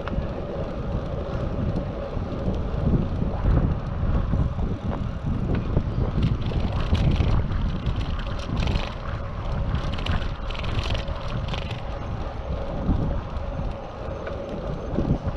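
Wind buffeting the microphone of a bicycle-mounted action camera while riding, a steady low rumble with road and tyre noise underneath and a few short hissing patches in the middle.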